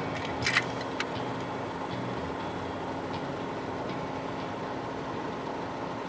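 A Chevrolet Niva's engine running steadily at idle, with a couple of light clicks about half a second and a second in.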